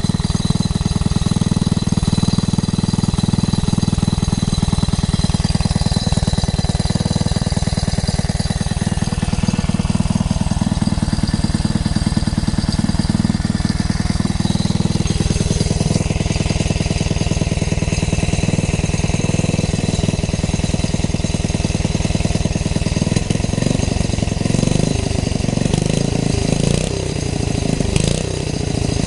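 Tecumseh H70 single-cylinder engine running steadily with rapid, even firing. Its note changes about halfway through, and near the end the engine speed rises and falls.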